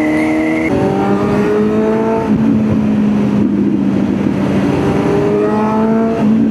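Kawasaki Z900's inline-four engine on the move, its pitch rising as it revs up about a second in and again near the end, over a steady engine note, with wind noise.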